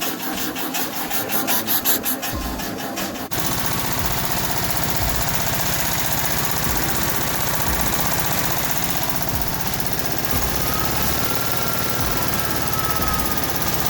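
Music with a steady beat for about three seconds, then a sudden cut to a VW Beetle's air-cooled 36hp flat-four engine running steadily.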